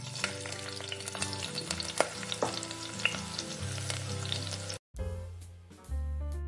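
Food frying in hot oil: a steady sizzle full of sharp pops and crackles. It cuts off abruptly about three-quarters of the way through, and music follows.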